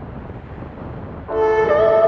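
Steady rush of wind noise on a bicycle-mounted action camera's microphone. About a second in, background music cuts in suddenly with loud held chords and is the loudest sound.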